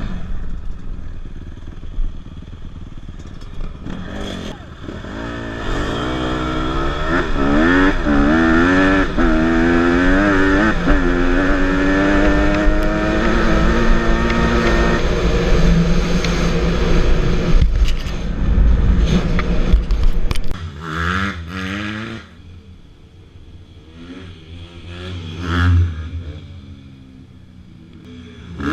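Small dirt bike engine revving up and down through the gears, with wind rumbling on the microphone. About twenty seconds in the wind rumble stops and the engine sound falls away, leaving quieter revs that rise and fall, briefly louder near the end.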